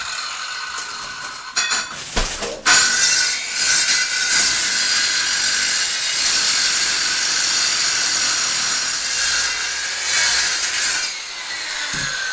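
Diamond-blade power saw cutting into brick and mortar, its motor whining steadily under load. It stops and restarts about two seconds in, then runs on and eases off near the end.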